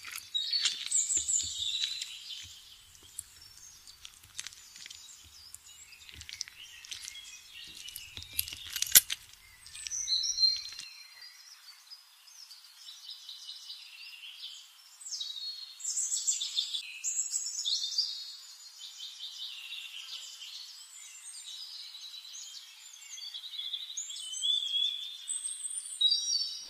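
Small birds chirping and twittering in many quick, high calls, with a sharp click about nine seconds in.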